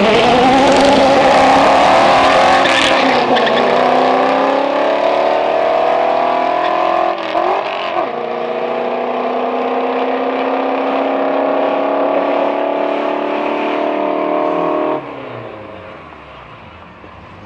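A car accelerating hard down a drag strip. The engine climbs in pitch through the gears, dropping back at gear changes about three and eight seconds in. It stops suddenly about fifteen seconds in as the driver lifts off.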